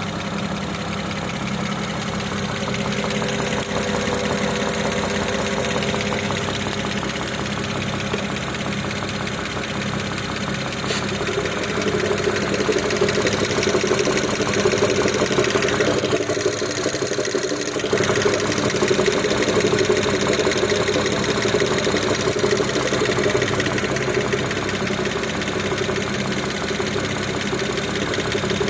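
BMW N54B30 twin-turbo straight-six idling at a steady speed, with a rapid, regular knock running through it. The knock shows up only once the engine has warmed up at idle and is absent from a cold engine.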